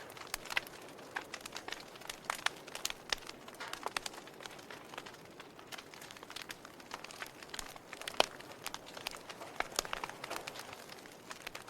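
Log fire crackling: irregular sharp pops and snaps over a soft steady hiss, with one louder pop about eight seconds in.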